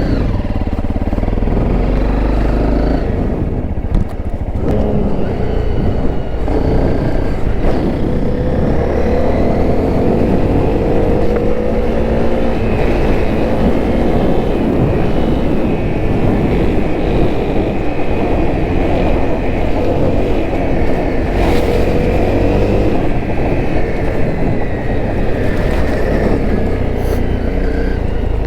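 Honda CRF250L's single-cylinder four-stroke engine running under way, its pitch rising and falling as the revs change.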